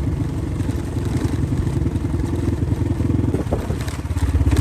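Dirt bike engine running steadily at low revs with a fast, even firing beat, and a short knock about three and a half seconds in.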